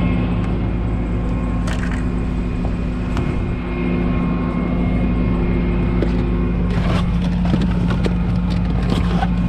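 A truck engine running at a steady speed, with scattered clatter and knocks, most of them from about seven seconds in.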